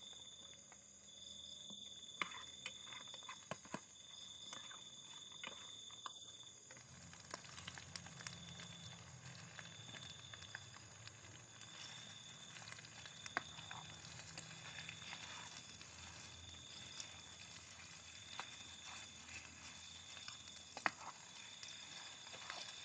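Insects chirping at night: a high trill that pulses on and off in repeated spells over a steady background of higher insect tones, with scattered faint clicks and rustles.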